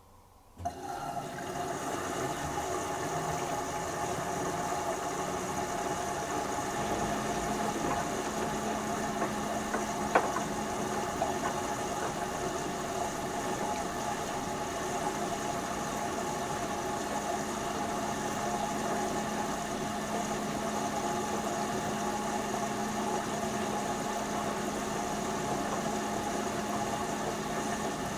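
LG TurboWash 360 direct-drive washing machine starting its first rinse: a steady machine hum with several fixed whirring tones comes on suddenly about half a second in. A steady low drone joins a few seconds later, and there is a single short click near the middle.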